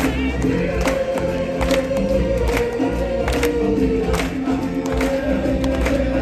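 Live stage-show music: a choir holding long sung notes over a steady drum beat, with a strike a little under once a second.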